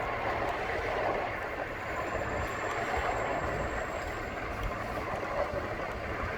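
Steady rumble and hiss of a Bird electric rental scooter rolling over pavement, tyres and deck rattle mixed with wind on the microphone. A faint high whine comes in for a couple of seconds through the middle.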